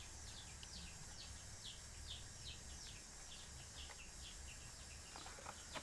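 A small bird chirping faintly over and over, short high notes that slide downward, about two or three a second, over a low steady hum.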